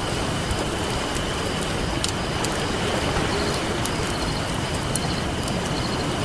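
Wood campfire crackling with scattered sharp pops over the steady hiss of ocean surf, with faint high rhythmic chirping in groups.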